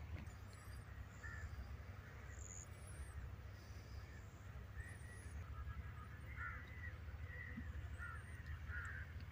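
Faint birds calling: short repeated calls, several in quick succession in the second half, with a few thin high chirps, over a low steady rumble.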